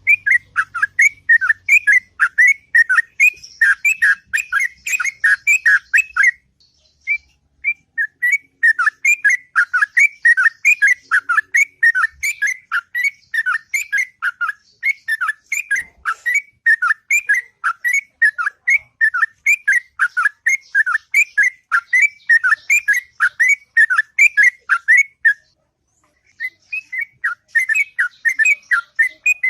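Yellow-vented bulbul (trucukan) singing a long, rapid run of whistled notes at several notes a second, breaking off briefly twice.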